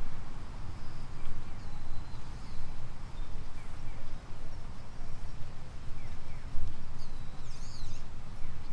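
Outdoor ambience with a steady, fluctuating low rumble and short chirping calls of small birds, scattered early on and clustered shortly before the end.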